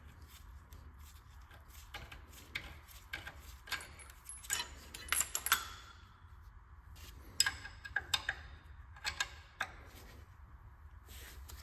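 Metal hand tools and small engine parts clinking and clicking in irregular clusters, loudest a little past the middle, over a low steady hum.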